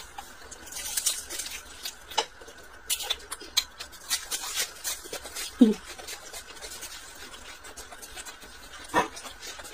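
Crisp crunching as raw green onion stalks are bitten and chewed: a quick series of crackles for the first few seconds that then eases into softer chewing. A brief vocal sound about halfway through.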